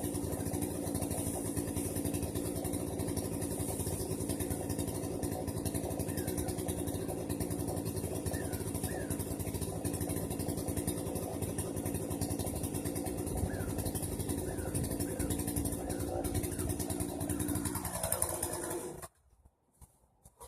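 Small petrol engine running steadily at a constant speed, then switched off about eighteen seconds in, its pitch sinking as it winds down to a stop.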